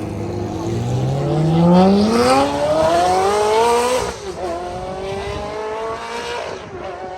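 Car engine accelerating hard: its pitch climbs for about three seconds, drops sharply at a gear change about four seconds in, climbs again, then eases off.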